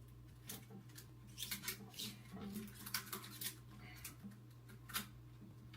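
Faint handling sounds of rubber bands being stretched onto a watermelon: a scatter of short snaps and rubbery rustles, the sharpest about three and five seconds in, over a low steady hum.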